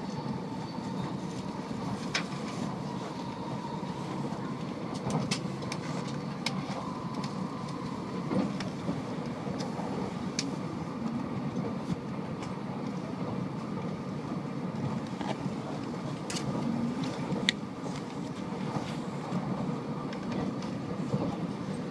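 Tokaido Shinkansen heard from inside the passenger car at speed: a steady rumble of the running train, with a few short sharp clicks scattered through it.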